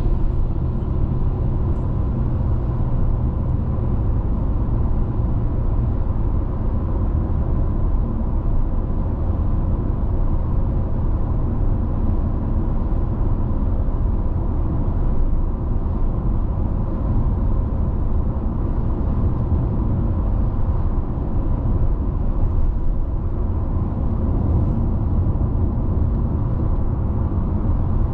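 Steady road noise of a car driving along: a constant low rumble of tyres and engine, with a faint steady whine above it.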